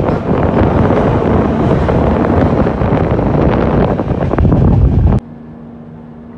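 Moving express passenger train heard from on board, with wind buffeting the microphone and wheels clattering over the track. About five seconds in, the noise cuts off abruptly to a much quieter steady low hum.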